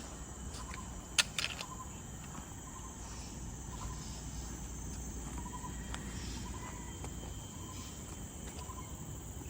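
Steady high-pitched drone of forest insects, with a short call near 1 kHz repeating about every half second to second. A single sharp click comes about a second in, over a low rumble of wind or handling noise.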